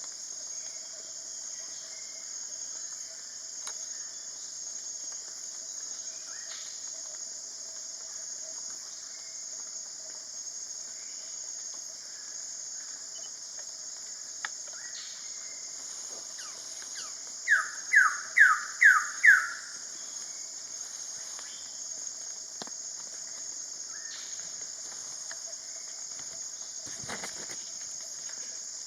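A Wilson's bird of paradise gives a quick series of five loud, downslurred notes, each sliding down in pitch, about two-thirds of the way through. A steady high-pitched buzz of rainforest insects runs throughout, with a few fainter calls earlier.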